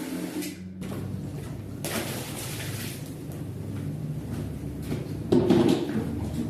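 Rug-cleaning machinery at work: a steady motor hum cuts off about half a second in, giving way to uneven noisy scrubbing and water-like noise, with a louder burst a little past five seconds.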